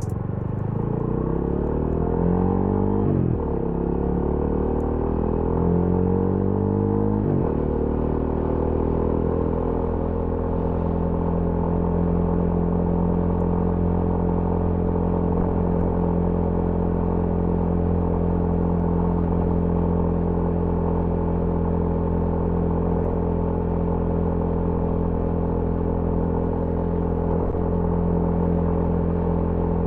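TVS Apache RTR 200 4V's fuel-injected single-cylinder engine pulling away, its pitch rising then dropping sharply at two upshifts in the first eight seconds, then holding a steady note at cruising speed.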